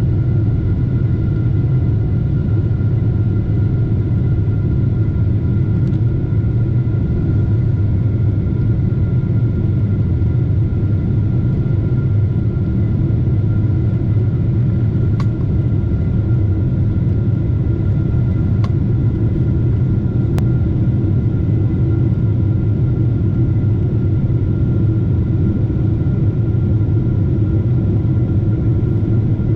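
Steady cabin noise inside a Boeing 747-8 airliner: a deep, even rumble with a faint steady whine over it. A few faint clicks come about halfway through.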